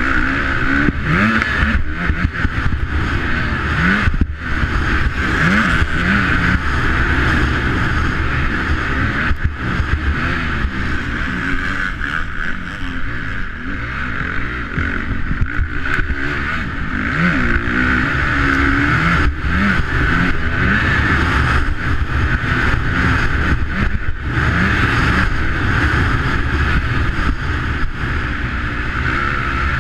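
Motocross bike engine revving up and dropping off again and again as it is ridden hard around a dirt track, heard through a rider-mounted camera with steady wind noise over it.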